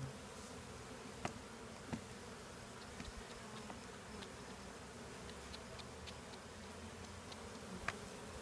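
A large honeybee swarm buzzing, a steady dense hum of many bees, with a few sharp clicks or taps over it, about a second in, around two seconds in and near the end.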